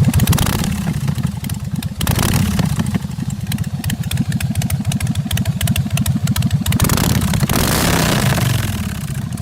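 Motorcycle engine running loudly with rapid low firing pulses, revved up about two seconds in and again around seven seconds.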